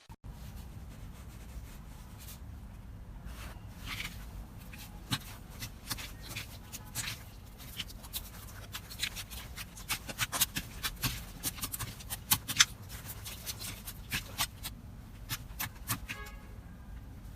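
Hands working slime, giving a run of sharp, sticky clicks and pops over a low steady rumble; the clicks come thicker and louder from about halfway through.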